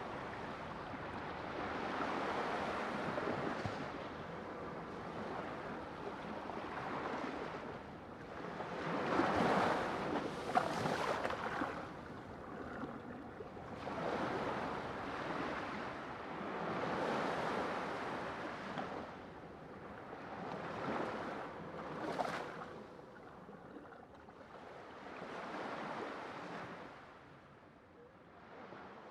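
Sea waves washing in and drawing back, the sound swelling and fading every few seconds, loudest about nine to eleven seconds in.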